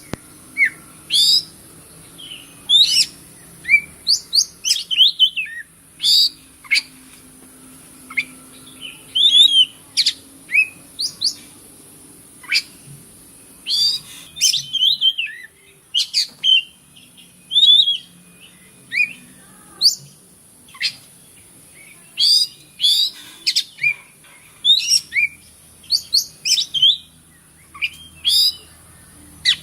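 Oriental magpie-robin (kacer) singing a rapid, varied song of short whistled and chirping notes in quick runs with brief pauses, over a steady high hiss.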